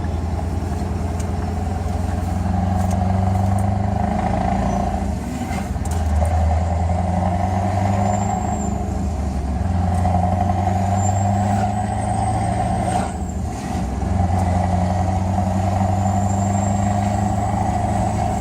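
Scania R500's V8 diesel engine running through an open exhaust pipe, loud and deep, its level swelling and easing several times with a brief dip about 13 seconds in.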